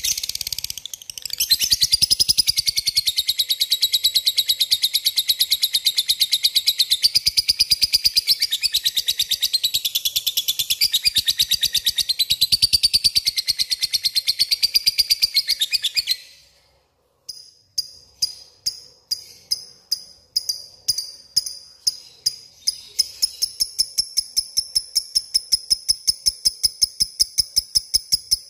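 Lovebird 'ngekek' song: a long, fast, unbroken chattering trill of high chirps, the rival-calling chatter of a bird in full form. It stops abruptly about halfway through; after a short pause, spaced chirps pick up again and speed back into another rapid run.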